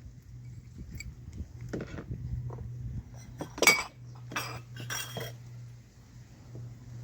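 Metal kitchenware clinking: several sharp clinks and knocks of utensils against pots and dishes, the loudest about three and a half seconds in, over a steady low hum.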